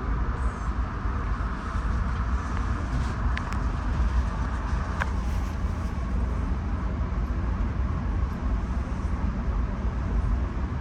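Steady low rumble and hiss of a moving passenger train, heard from inside a Bombardier LRC rail car. Two brief sharp ticks come about three and five seconds in.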